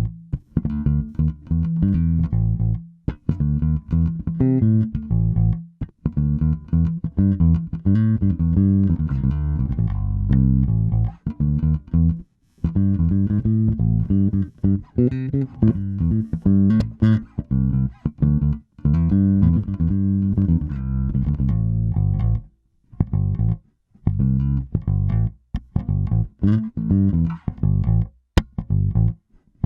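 FGN Mighty Power electric bass played solo: a quick run of plucked and slapped notes in phrases, broken by short pauses.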